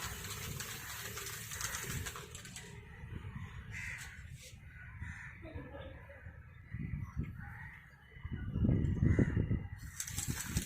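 Aerosol spray-paint can hissing as matte black paint goes onto a motorcycle helmet shell, the hiss stopping a few seconds in and starting again near the end. Crows caw in the background, and a loud low rumble comes about a second before the end.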